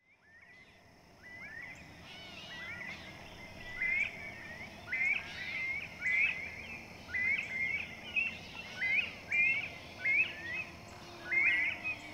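Birdsong: short, rapidly gliding phrases repeated about once a second, over a faint steady background hum. The sound fades in over the first couple of seconds.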